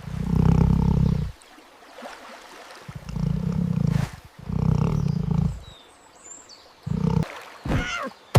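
Deep roars from a large animal, four in all: three long ones of about a second each, then a short one near the end.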